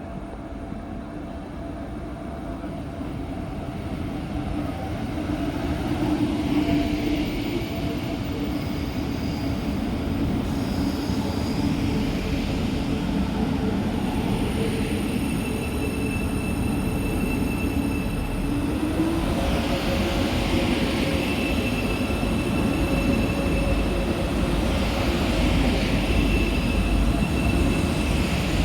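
A train running through the station, growing louder over the first six seconds and then steady, a dense rumble with high steady whining tones joining about halfway through.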